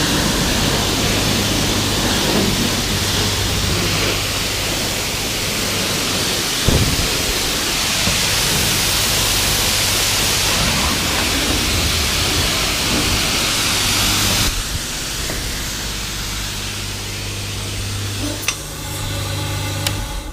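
Water spraying steadily onto a car during a wash, a loud even hiss over a steady low hum. The spray changes and gets a little quieter about two-thirds of the way through, with a few clicks near the end.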